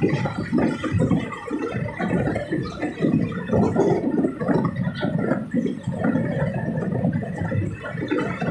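Moving passenger train heard from aboard: a loud, uneven rumbling and rushing of wheels, coach and wind.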